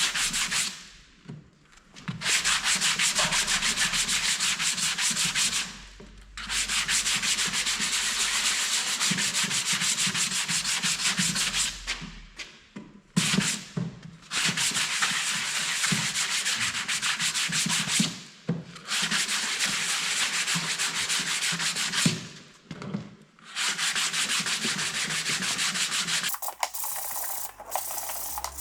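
Sanding: an abrasive rubbing over a surface in a run of passes lasting a few seconds each, with short pauses between them.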